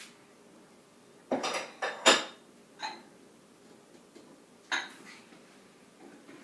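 Dishes and cutlery clinking and knocking as a dishwasher is unloaded piece by piece: a few separate clatters with a short metallic ring, the loudest about two seconds in.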